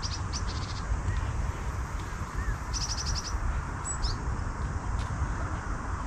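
Small birds calling in short high chirps, with a quick run of about seven notes around three seconds in and another call a second later, over a steady low rumble.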